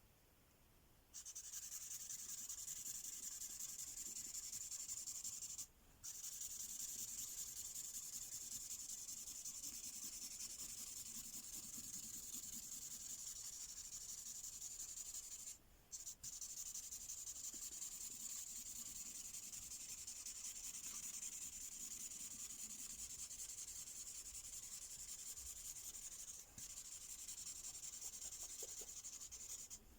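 Mystery Ink marker pen rubbing back and forth on a colouring page, a fast, steady scratchy strokes sound. It starts about a second in and breaks off briefly three times as the pen lifts.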